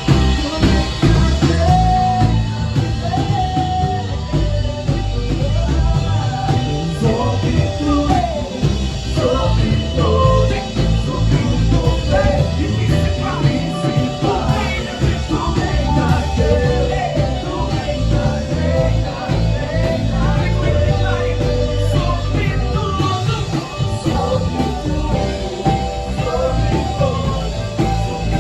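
A band playing a song with a singer: drum kit, heavy bass and guitar under a lead voice.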